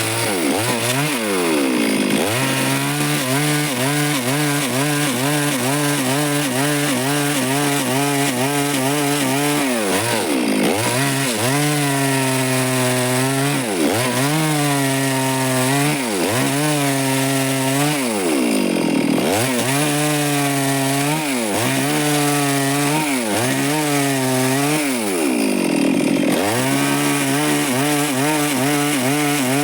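Stihl chainsaw engine running at high revs while cutting through wood. Its pitch dips sharply and climbs back several times as the saw bogs in the cut or the throttle is eased and squeezed again.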